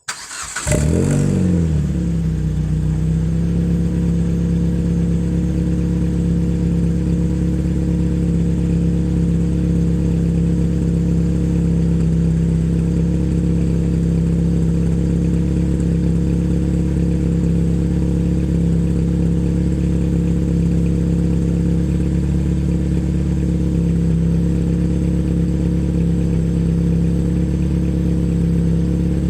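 Proton Exora's CamPro CPS 1.6-litre four-cylinder engine heard through an aftermarket Jasma twin-tip exhaust: it starts up, flares briefly in revs and drops back, then settles into a steady idle.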